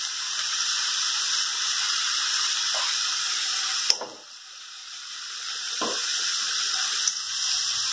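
Chopped onions sizzling as they fry in oil in a steel kadai, a steady hiss. About four seconds in there is a sharp click, after which the sizzle drops and slowly builds back up.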